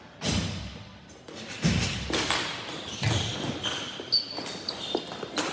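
Ball hockey play in a rink: sharp clacks of sticks and ball, with heavier thuds of the ball or players against the boards about a quarter second, one and three-quarter seconds and three seconds in.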